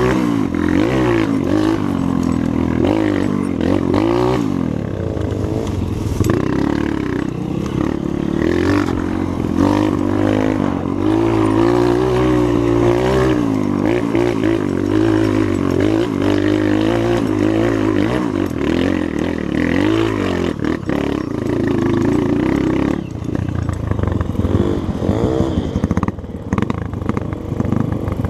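Trail motorcycle engine running under load as it is ridden, its pitch rising and falling again and again with the throttle and gear changes.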